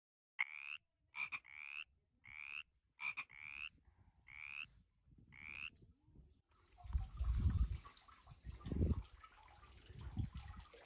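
A frog calling: about eight short, pulsed calls in the first six seconds, some in quick pairs. After that, a steady high insect trill with low rumbles beneath it.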